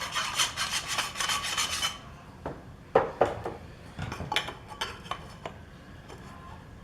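Quick back-and-forth filing strokes on a metal sleeve, taking off a burr, for about two seconds. Then a sharp metallic knock and a few lighter clinks of metal parts being handled.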